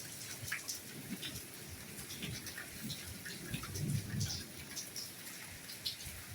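Steady rainfall: a soft hiss with many separate drops tapping, and a few dull low thuds of heavier drops.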